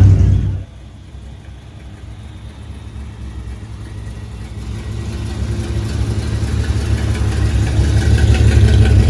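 Car engine running with a low rumble that drops away sharply about half a second in, then grows steadily louder over the following seconds, as a car approaching.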